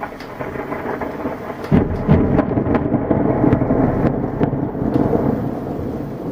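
Thunder. A rumble swells, then breaks into a loud sharp crack about two seconds in, with crackling strokes over the next few seconds before it rolls on as a steady low rumble. Rain falls underneath.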